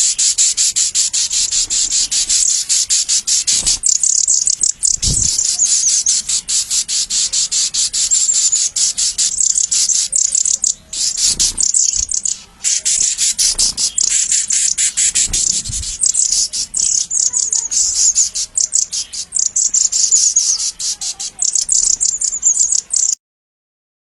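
Rapid, high-pitched bird chirping, many calls a second and continuous, that cuts off suddenly near the end.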